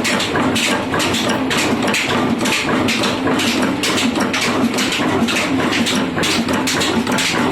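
Ruston 20 HP diesel oil engine running steadily, a fast even beat of about five knocks a second over a deep drone.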